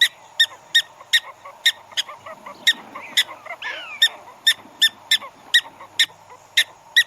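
Prairie dog giving its alarm call: a long run of short, sharp, high-pitched chirping barks at nearly three a second.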